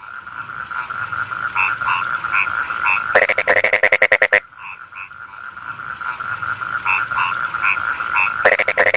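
Rice-field frogs calling in chorus: a steady trill with scattered short chirps. Twice a loud call of rapid pulses lasting about a second cuts in, once a third of the way in and again at the very end.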